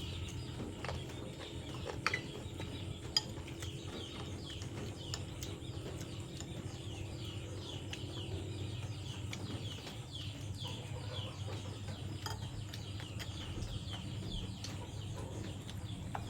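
Birds chirping over and over in short, falling notes, over a low steady hum, with a couple of sharp clicks about two and three seconds in.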